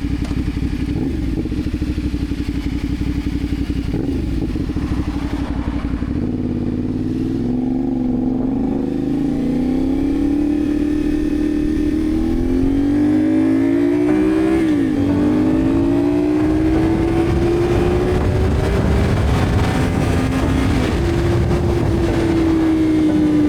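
CFMOTO 450SR's parallel-twin engine running under way, its pitch climbing slowly as the bike pulls. The pitch dips sharply once a little past halfway and climbs again.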